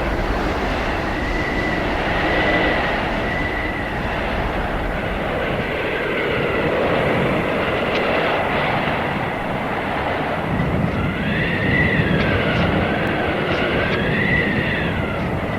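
Blizzard wind: a steady loud rush with howling whistles that rise and fall in pitch, growing stronger and wavering more near the end.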